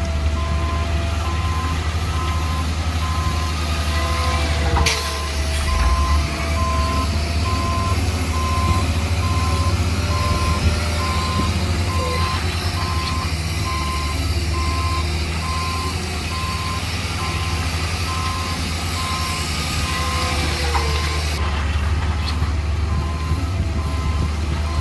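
A heavy construction vehicle's reversing alarm beeping at an even pace over the steady low running of the machine's engine.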